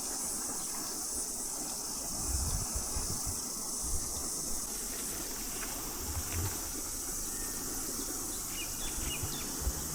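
Chorus of cicadas in native bush: a steady, high-pitched shrill buzz, with a few soft low bumps on the microphone.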